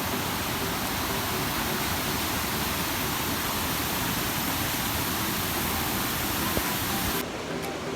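Steady rushing water, an even full-range hiss that cuts off abruptly about seven seconds in.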